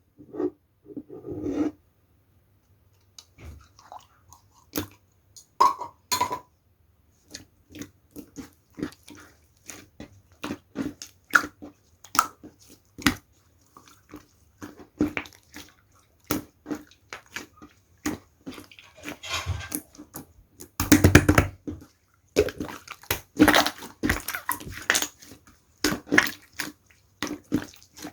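Slime being squished and kneaded by hand, with irregular wet clicks and pops and denser crackling bursts about two-thirds of the way through.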